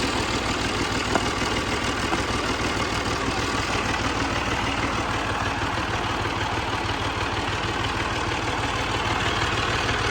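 Fiat 480 tractor's three-cylinder diesel engine running steadily under load, driving a wheat thresher by flat belt, with a rapid, even firing beat under the thresher's broad, steady noise.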